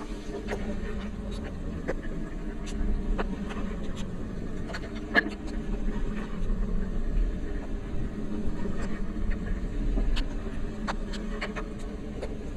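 Light rain: raindrops tick irregularly on a rain cover over the recorder, over a steady low rumble of the moving ride.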